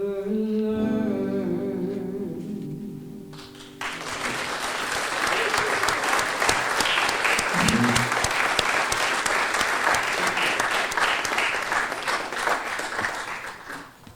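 A singer holds the final note of a song for a few seconds. The note ends about four seconds in, and audience applause follows for about ten seconds, fading near the end.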